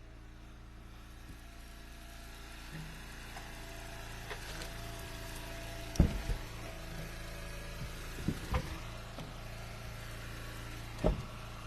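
Engine of an Eastonmade hydraulic wood splitter running steadily, with several sharp knocks of ash firewood pieces. The loudest knock comes about halfway through and more follow later.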